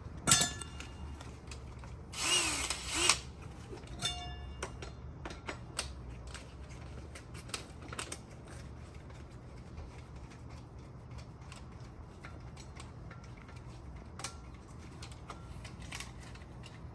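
Metal clicks and clinks from a 6-inch SDS-max core bit and its extension being handled and locked together, with a brief burst of whirring about a second long around two seconds in. A low hum runs underneath.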